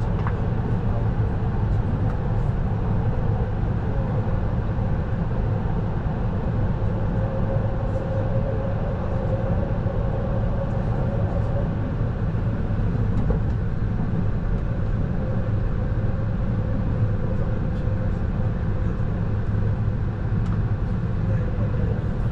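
Running noise heard inside a moving train carriage: a steady low rumble of wheels on rails, with a faint whine that is strongest in the middle.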